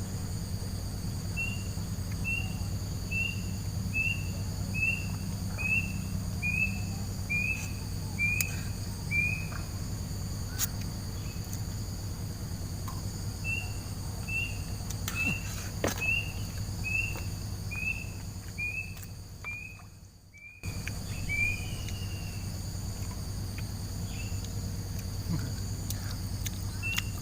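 A bird calling a long series of short, evenly spaced notes, about two a second, in two runs with a pause between them. Behind it runs a steady high insect drone and a low hum.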